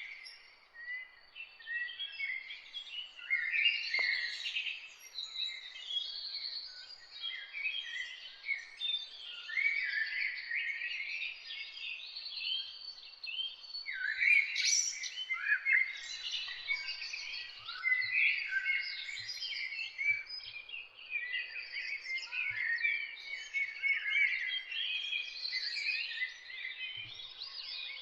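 A dense chorus of songbirds singing and chirping, many short overlapping calls and trills with no pause.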